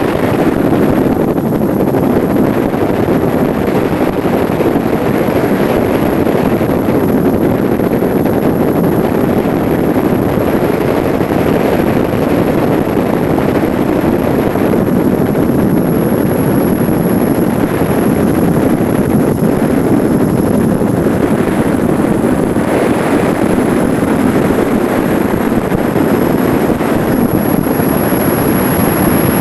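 Steady, loud engine and airflow noise of the aircraft that the aerial footage is filmed from, with a thin high whine throughout.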